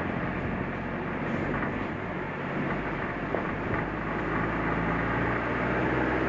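Suzuki Jimny on the move: steady engine hum and road noise.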